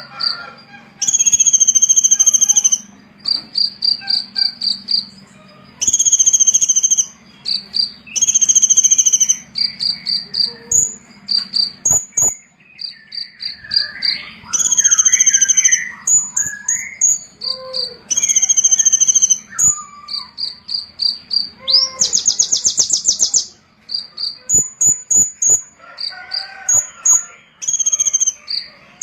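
Small songbird singing a high, fast chattering song: phrases of rapid trills and short repeated notes with brief pauses between them, and a buzzy rattle a little over 22 seconds in.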